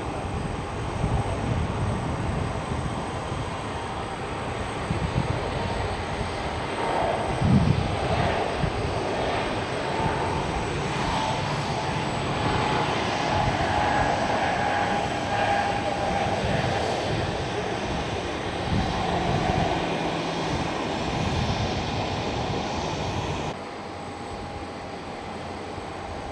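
Passenger jet's engines running as an airliner moves near the airport: broad roaring noise with a steady whining tone over it. The level drops abruptly about three seconds before the end.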